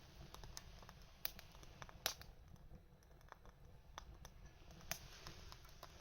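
Small wood fire crackling faintly: sparse, irregular sharp pops over a low hiss and rumble, the loudest pop about two seconds in.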